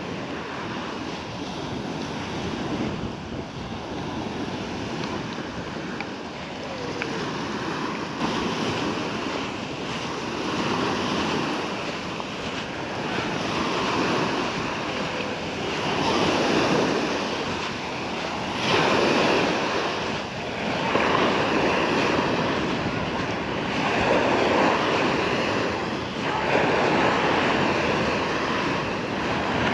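Small sea waves washing onto the shore, breaking and receding every two to three seconds, louder in the second half. Some wind noise on the microphone.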